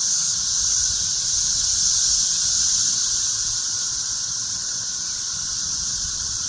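Chorus of cicadas buzzing, a steady high-pitched drone that holds on without a break.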